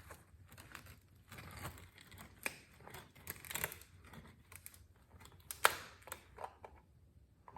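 A plastic motor oil bottle being opened by hand: crinkling and tearing sounds with scattered clicks, and one sharp click about two-thirds of the way through.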